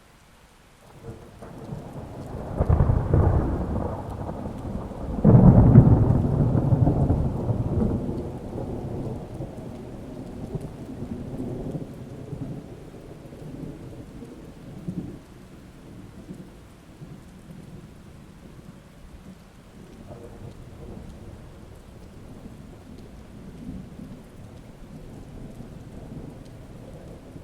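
Thunder rolling during steady rain. A rumble builds about a second in and swells to two loud peaks a few seconds apart, then rolls away slowly over the following seconds while the rain keeps falling.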